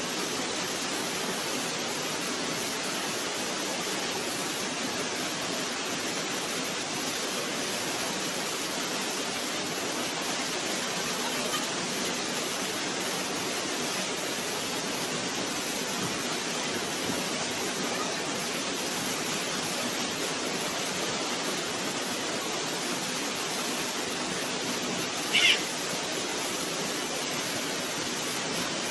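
Steady rush of a waterfall, with one short high-pitched cry near the end.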